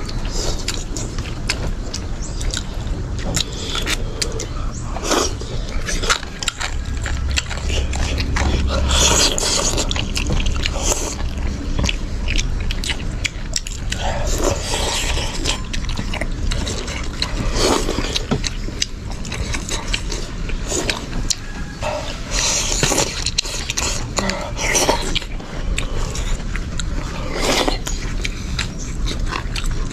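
Eating sounds close to the microphone: chewing, with scattered clicks and scrapes of utensils against a bowl.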